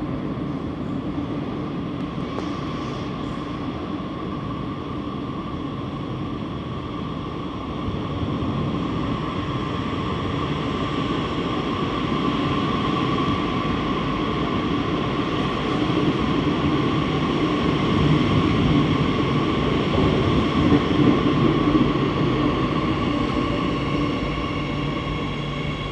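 Madrid Metro 8000-series electric train running at a station, a steady rumble with an electric whine that grows louder through the middle and then eases.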